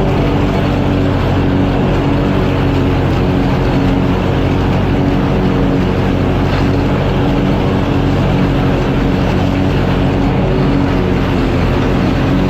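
Mowing engine running steadily at constant speed, loud and close.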